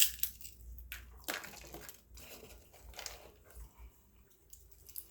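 Crinkling and rustling of takeout food packaging being handled, with a sharp click at the start and scattered taps and rustles after.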